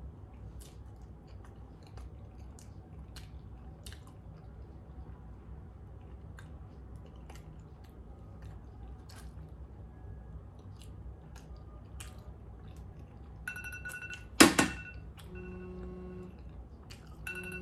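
Close-up chewing of a mouthful of food, with small wet mouth clicks. About thirteen and a half seconds in, a phone's countdown-timer alarm starts beeping in a repeating pattern, marking time up, and a second later comes one loud sharp knock.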